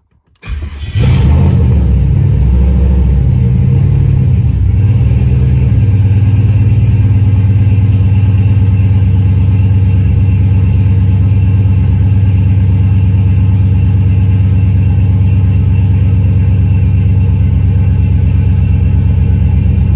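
Turbocharged LS V8 in a Crown Vic starting from cold: it catches about a second in, runs unevenly for a few seconds, then settles into a steady idle near 1,000 rpm, heard from inside the car.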